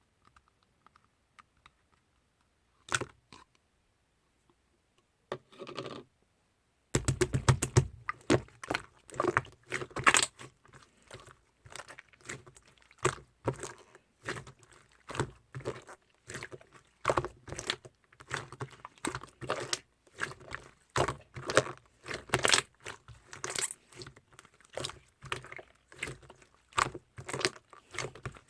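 Chewy slime squeezed and pressed by hand: a few isolated clicks, then from about seven seconds in a steady run of sticky clicks and small air-bubble pops.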